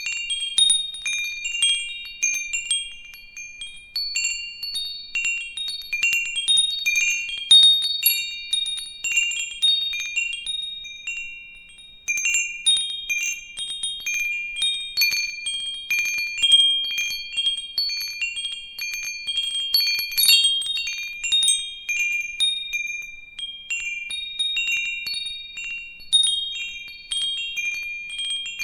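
Metal tube wind chimes ringing, struck irregularly and often, the high clear tones overlapping and ringing on between strikes, with a brief lull about twelve seconds in.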